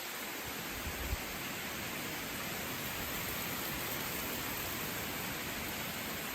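Steady hiss of a rainstorm, with rain and wind noise and a couple of brief low thumps about a second in.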